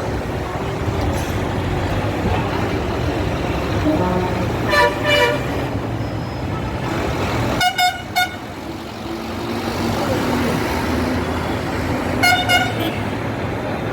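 Steady road traffic with vehicle horns tooting three times, each a quick double honk.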